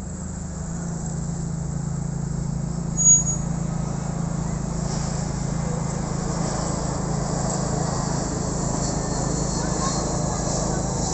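Aircraft engine noise: a steady rumble that slowly builds, with a brief high-pitched beep about three seconds in.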